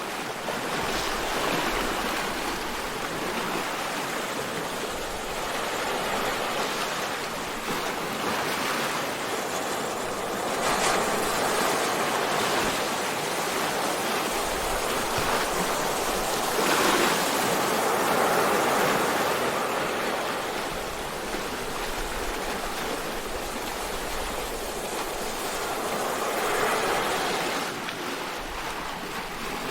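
Sea waves washing: a steady rush of water that swells and eases several times.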